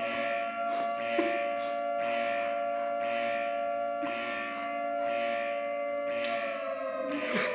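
Air-raid style siren wailing at a steady pitch, with a faint pulse about once a second; its pitch begins to wind down near the end.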